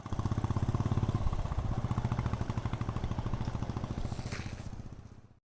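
Motorcycle engine running at low revs with a steady, even firing beat. It fades away near the end and then stops.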